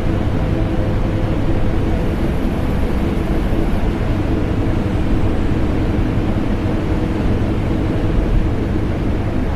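Vacuum cleaner motor running continuously, mixed with the running of an air conditioner: a loud, even drone with a deep rumble and a faint steady hum, unchanging throughout.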